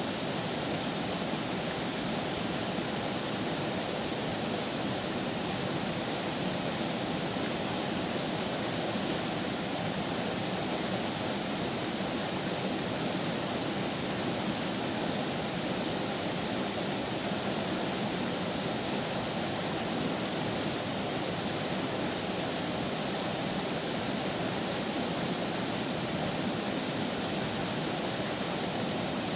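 River water running and rushing, a steady even wash of sound with no breaks.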